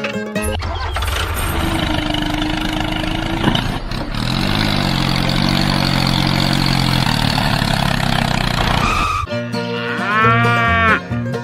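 Tractor engine running steadily with a low rumble, cutting off abruptly about nine seconds in as plucked-string music comes back in. A short rising-and-falling call is heard near the end.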